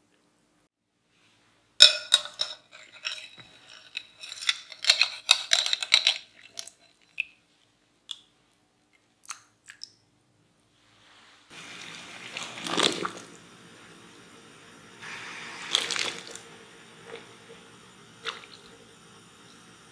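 Kitchen food-prep sounds: after a silent start, a run of sharp crunchy knocks and clicks for about five seconds. After a short pause, a steady watery hiss sets in, with two louder surges.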